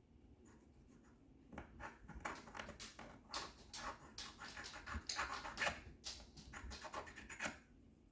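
Small chisel blade scraping glue and paint off a model railroad car. A quick run of short scratching strokes starts about a second and a half in and stops shortly before the end.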